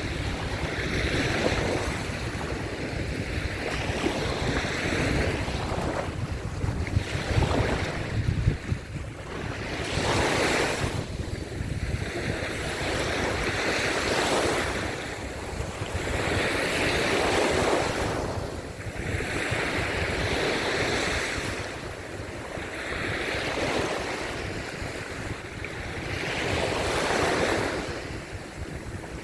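Waves breaking and washing up a sandy beach, the surf swelling and fading every few seconds. Wind buffets the microphone, strongest in gusts about a third of the way in.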